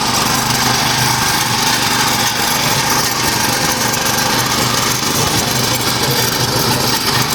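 Mini tractor's small engine running steadily.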